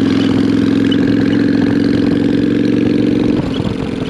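Motorcycle engine running at a steady pace while riding, with an even note. About three seconds in the throttle is eased and the engine note drops and turns ragged.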